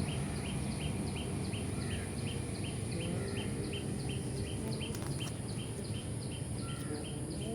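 A bird repeating a short chirp evenly, about three times a second, over a steady high hiss and a low background rumble.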